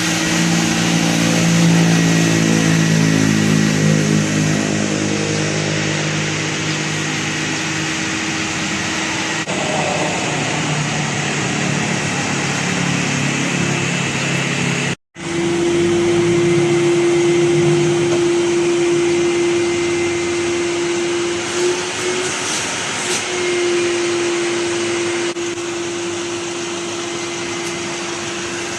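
Vacuum cleaner motor running steadily with a whine. The sound cuts out for a moment about halfway through, and after that the whine holds at one steady pitch.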